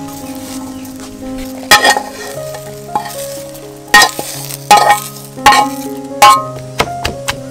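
Food frying and sizzling in a pan while it is stirred, with several sharp clanks of a utensil against the pan.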